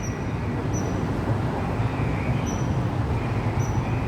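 Steady low rumbling noise, with faint short high-pitched chirps recurring every second or so.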